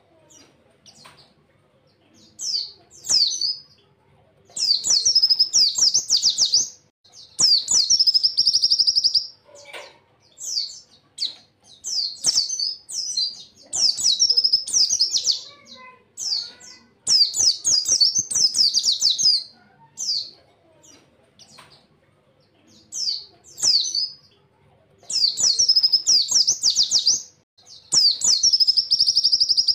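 Pleci (white-eye) singing: about a dozen rapid, high-pitched bursts of fast warbling trills, each one to two and a half seconds long, with short pauses between them. These are the quick volleys that pleci keepers call "tembakan".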